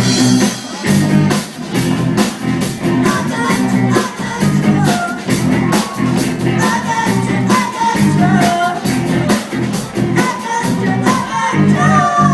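Young rock band playing live: a steady drum-kit beat under electric guitar and bass, with a sung melody over it.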